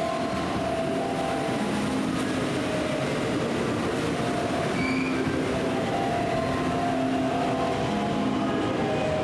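Train running at a station platform, a steady rumble with a tune of short notes at changing pitches heard over it.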